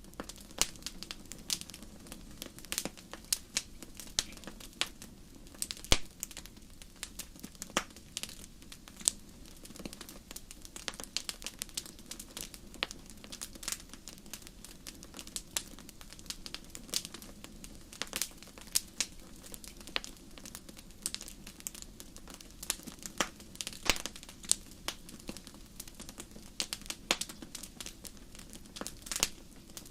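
Wood fire crackling in a fireplace: irregular sharp pops and snaps, some louder than others, over a steady low rumble of burning.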